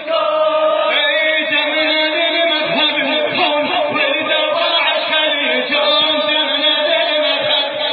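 Arabic nasheed: a male voice chanting over a steady held backing tone, several voices sounding at once.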